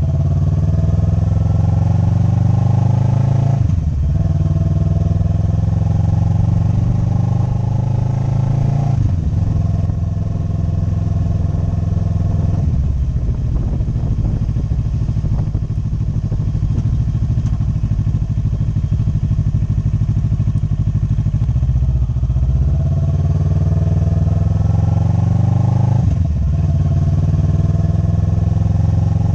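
Motorcycle engine pulling through the gears: its pitch rises, drops at upshifts about 4, 9 and 26 seconds in, and runs steadier in the stretch between.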